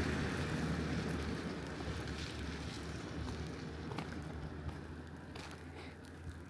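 Tyre hiss and engine rumble of a vehicle passing on a wet road, fading steadily away, with light ticks of rain drips in the second half.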